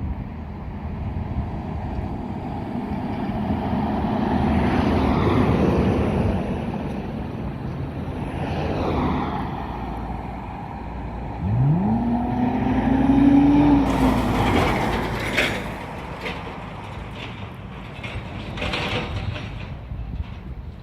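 Ford Mustang S197's 4.0-litre V6 running through a custom exhaust. It swells in level for a few seconds, then about eleven seconds in is revved sharply, holds high for a couple of seconds and drops back. Scattered clicks and knocks come near the end.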